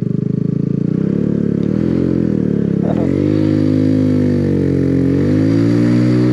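Motorcycle engine pulling away at low speed, the revs rising and falling several times, with a quick dip and climb again about three seconds in.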